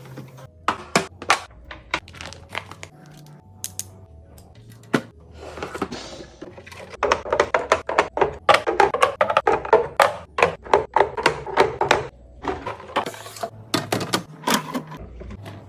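Quick clicks, taps and knocks of containers and packaging being handled and set down while restocking a fridge, with a denser stretch of clattering in the middle, over background music.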